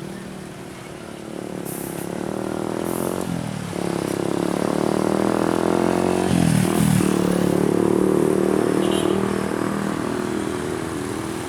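Heavy truck engine accelerating through the gears. Its pitch climbs, then drops at a gear change about three and a half seconds in and again near seven seconds, and it grows louder as it pulls away.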